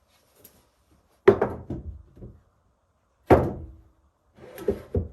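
Three heavy wooden thunks of cut lumber pieces being handled and set down, about a second, three seconds and four and a half seconds in, the last one a quick run of knocks.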